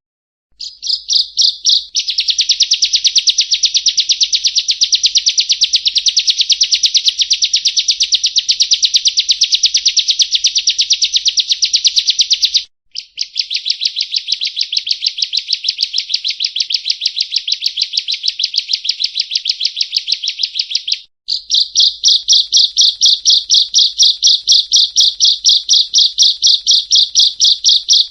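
Bar-winged prinia (ciblek kristal) singing a long, loud rapid trill of repeated high notes. The song runs in three long bouts with brief pauses about 13 and 21 seconds in.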